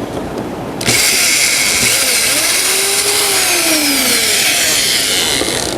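Right-angle power drill running for about five seconds as it drills into wood. It starts suddenly about a second in and stops just before the end.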